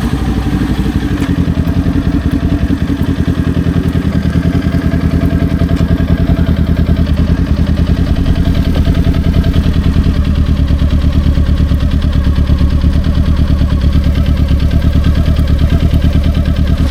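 Kawasaki Ninja 400's parallel-twin engine idling steadily, with an even exhaust pulse.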